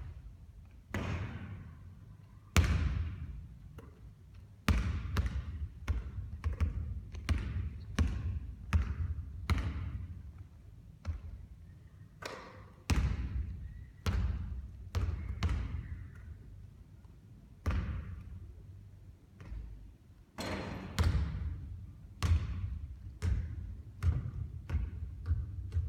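A basketball bouncing again and again on a hard court during three-point shooting practice, the impacts coming irregularly, sometimes in quick clusters, each trailing off in a short echo.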